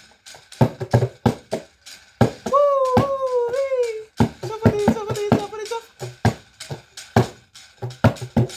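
A hand drum beaten in a steady rhythm, about two strikes a second, with a voice imitating a steam train in the middle: drawn-out sliding whistle calls ('woo woo wee') followed by a quick chuffing chant.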